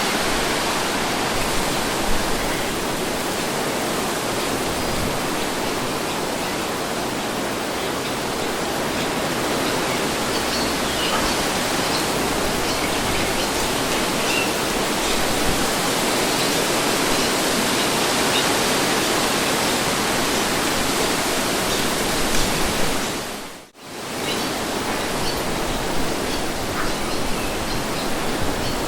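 Wind blowing in a steady, even rush. It briefly dips almost to nothing about three-quarters of the way through, then comes straight back.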